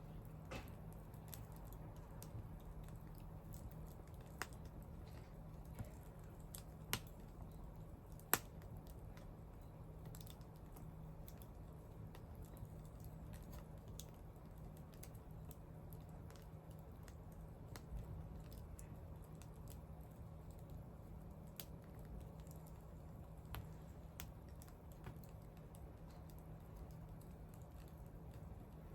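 Wood bonfire crackling, with irregular small ticks throughout and several louder sharp pops in the first nine seconds, over a steady low hum.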